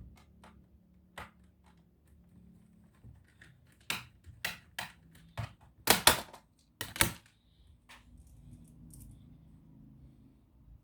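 A run of sharp plastic clicks and taps from a laptop being handled, about eight of them bunched together a few seconds in, with fainter ticks before and after.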